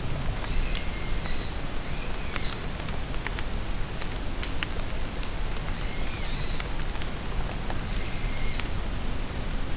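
Steady rain falling in a forest, with scattered drips, and a bird giving short high calls four times.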